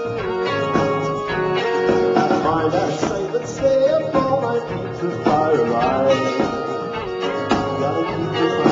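Live band playing a song with no words, full and steady with held tones and repeated notes.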